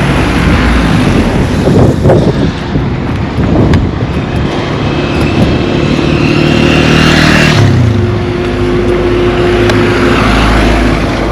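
Road traffic passing close by: vehicle engines running over tyre noise, with one vehicle going past about seven seconds in, its engine note dropping as it passes.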